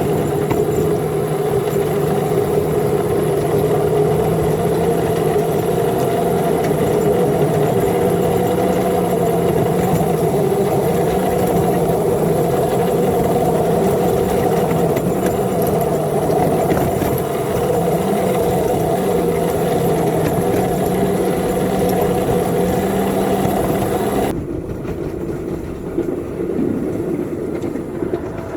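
An engine running steadily at an even speed, cutting off abruptly near the end to a quieter rushing noise.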